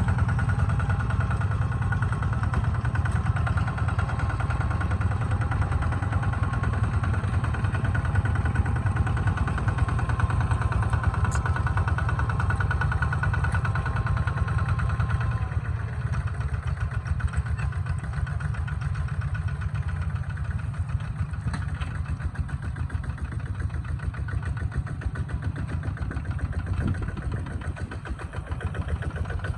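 Kubota tractor's diesel engine running steadily as it plows a muddy field. Its sound grows duller and a little quieter about halfway through, dips briefly near the end, then picks up again.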